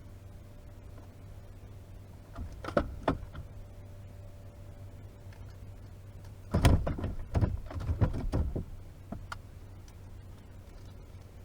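Knocking and rattling of things being handled in a small fishing boat, in two bursts about two and a half seconds in and again from about six and a half to nine seconds, over a steady low hum.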